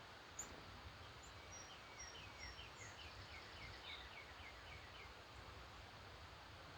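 Faint birdsong: one bird sings a run of short falling notes that come quicker and quicker for about three seconds, with a few high chips from other birds, over a steady background hiss.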